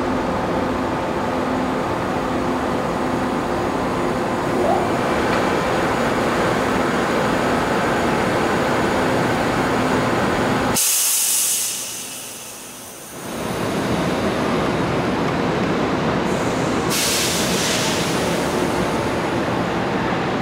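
Korail Line 1 electric commuter train standing at the platform, its on-board equipment running with a steady hum and a pulsing low tone. A sharp hiss of released compressed air comes about eleven seconds in and again near the end.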